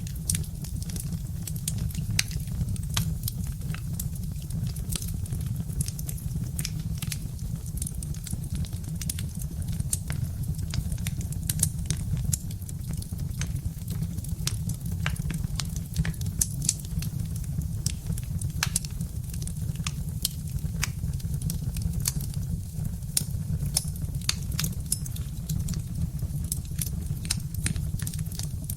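Birch-wood fire crackling, with many irregular sharp pops and snaps over a steady low rumble.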